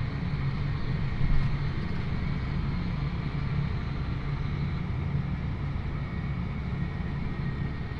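John Deere 8400R tractor's diesel engine running steadily while under way, a continuous low hum. A short louder knock comes about a second and a half in.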